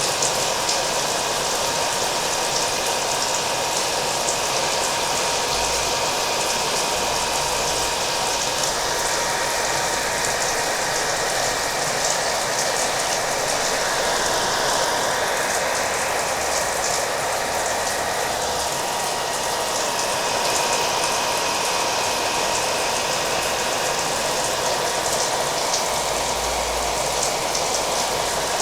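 Hair dryer running steadily, a constant blowing hiss with a thin whine from its motor, mixed with the patter of rain.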